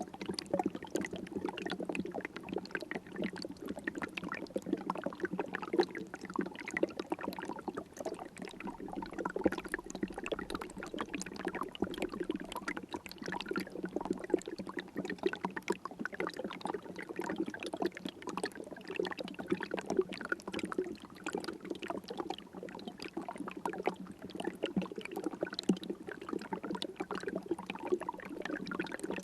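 River water flowing, a steady, dense gurgling and splashing without pauses.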